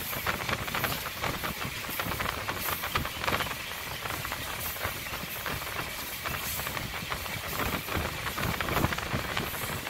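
MEMU electric passenger train running at speed, heard from aboard: a steady rushing hiss of air with many small irregular rattles and clicks from the coach and wheels.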